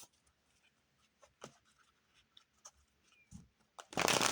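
Tarot cards being handled: scattered light clicks and taps, then a short burst of shuffling about four seconds in.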